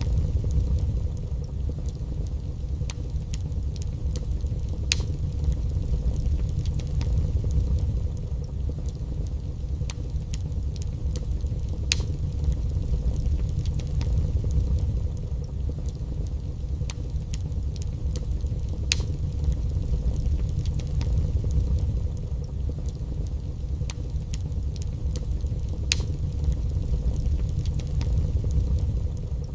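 Wood fire burning in a fireplace: a steady low rumble of the flames with sharp crackles and pops from the logs every few seconds.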